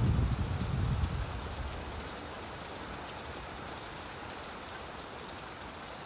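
Steady rainfall, an even hiss of rain on surfaces. A deep low rumble fades away over the first second or so.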